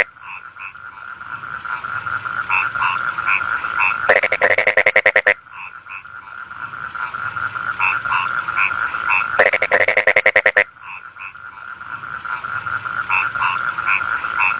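Rice-field frog chorus: twice, a loud burst of fast, rapidly pulsed croaking lasting just over a second, over a steady background trill and short repeated calls from other frogs.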